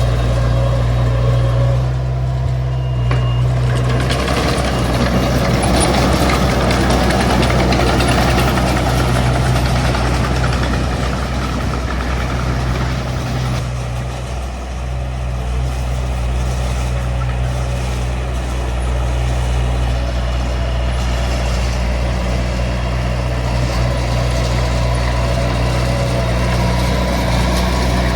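Small Komatsu D20 bulldozer's diesel engine running steadily under work, with a rougher, noisier stretch in the first half.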